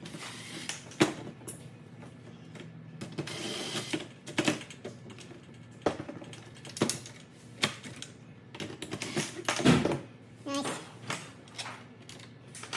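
Irregular clicks, taps and knocks of hand tools and parts being handled, with a heavier knock about ten seconds in.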